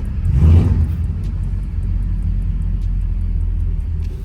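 Overhauled car engine running under way, with a brief louder surge about half a second in. It pulls with a small hesitation and a slight miss.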